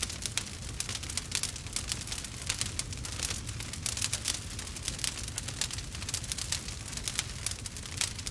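Wood fire burning in a fireplace: logs crackling and popping in quick, irregular snaps over a steady low rumble.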